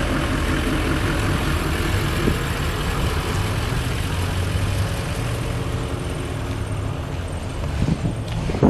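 Demolition derby car engines running steadily at idle, a low engine drone over a wide haze of outdoor noise.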